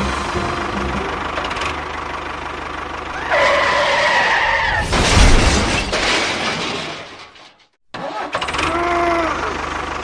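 A vehicle engine running, with a pitched sound that bends in pitch about three and a half seconds in and again about nine seconds in. The sound cuts out briefly just before eight seconds.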